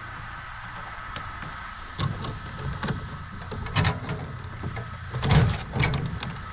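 A run of clattering knocks and rattles from equipment being handled, starting about two seconds in and ending near the end, over a steady low hum.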